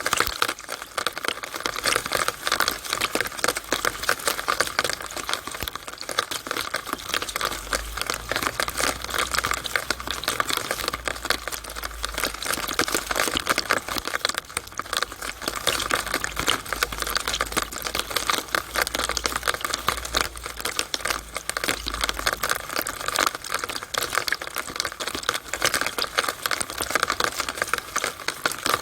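Rainwater running and dripping through a rain downspout, a steady dense patter of drops and splashes. A low hum runs underneath for about fifteen seconds in the middle.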